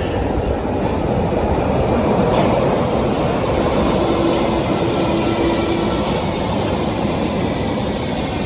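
Berlin U-Bahn large-profile subway train running, a loud steady rumble of wheels on rail. A steady hum comes in for about two seconds in the middle, and faint high whining tones glide in near the end.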